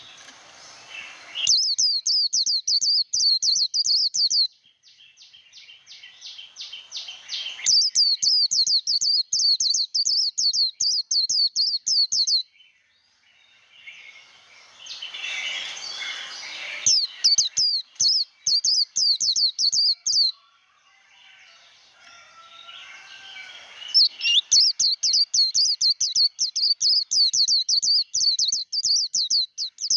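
White-eye (vành khuyên) singing its fast 'líu' fighting song: four bursts of rapid, high repeated notes, each a few seconds long, with softer warbling between them.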